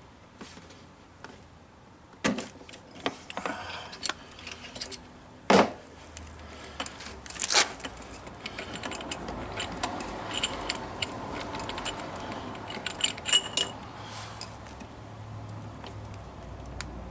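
Metal clinks and knocks of a spark plug wrench being fitted and worked on a generator's spark plug: a few separate sharp knocks, then a run of light quick clicks.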